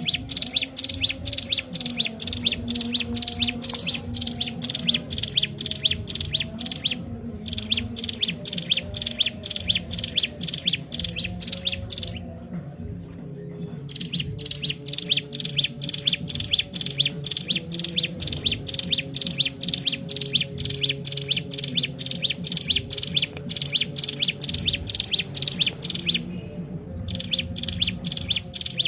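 Ciblek gunung, a small mountain prinia, calling in long runs of fast, sharp, high chirps repeated several times a second, broken by a few short pauses.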